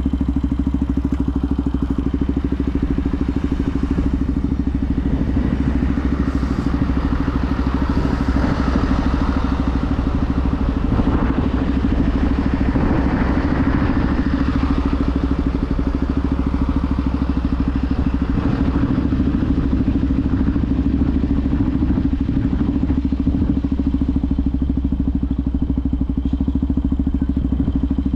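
Benelli TNT 125's air-cooled single-cylinder engine running at a steady pitch, with a hiss that swells up and dies back in the middle.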